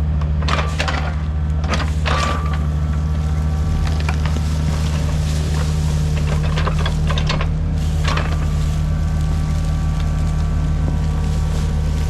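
Diesel engine of heavy construction equipment running steadily, with scattered clanks and scrapes of a steel attachment working the ground, loudest about two seconds in and again about eight seconds in.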